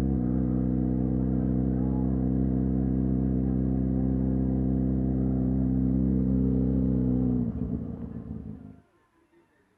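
A vehicle engine idling steadily at an even pitch, which dies away about seven and a half seconds in and leaves near silence.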